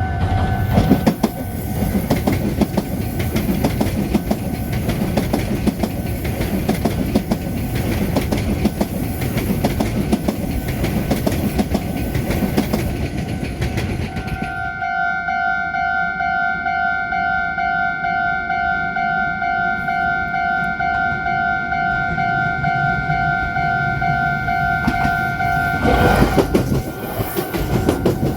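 A train runs over a level crossing, its wheels clattering over the rail joints, while the crossing's electronic warning bell rings a repeated two-tone ding. About halfway through the train noise ends and the bell rings on alone. Near the end the bell stops and a loud burst of train noise comes in.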